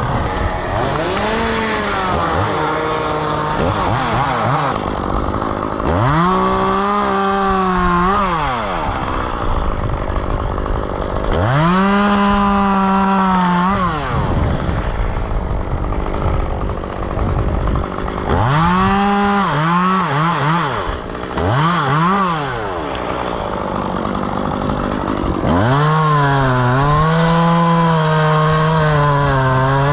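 Chainsaw revving up in bursts of a few seconds while cutting maple wood, dropping back toward idle between them. Around twenty seconds in it blips several times in quick succession, and near the end it runs at high speed for several seconds.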